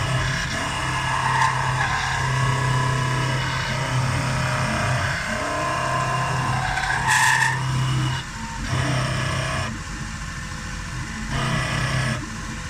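CNC milling machine cutting steel: a steady low motor hum with shifting, squealing cutting tones above it, a short sharp hiss about seven seconds in, and the hum stopping and restarting several times near the end.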